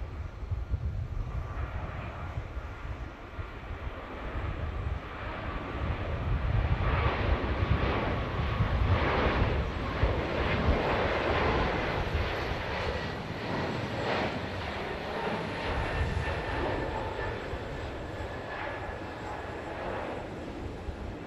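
Airliner passing by, its engine noise swelling to a peak about halfway through and then slowly fading, with faint tones gliding downward near the end. A low wind rumble sits under the start.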